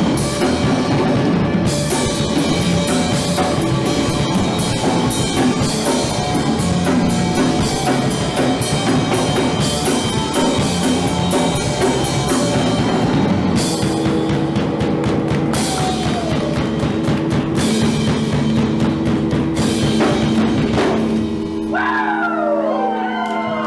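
Punk rock band playing live, drum kit driving hard under guitar and bass. About two seconds before the end the drums stop and a held guitar chord rings on with sliding high notes over it.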